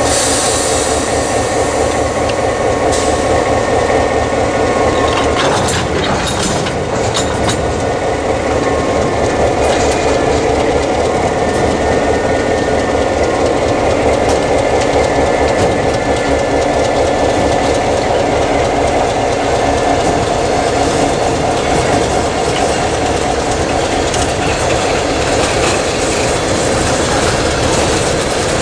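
EMD GP9 diesel locomotive running steadily as it rolls slowly past, with clicks of steel wheels on the rails and a freight car following behind it near the end.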